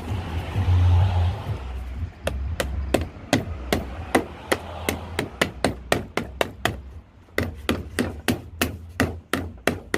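Handling noise and a low rumble for about two seconds, then a long, even run of sharp clicks or taps, about four a second and slightly quickening, from tool work on a push mower wheel and its flanged lock nut.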